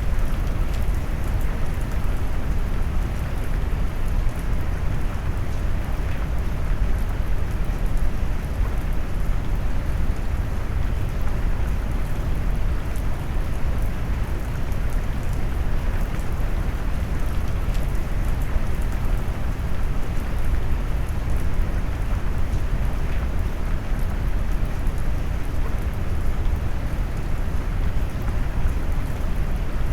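Steady rain mixed with brown noise: a deep, even rumble under a continuous hiss of rainfall, with a few faint drop ticks.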